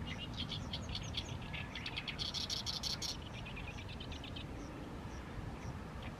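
Oriental reed warbler singing its harsh, chattering song, with a loud grating phrase about two seconds in, then a run of short repeated notes.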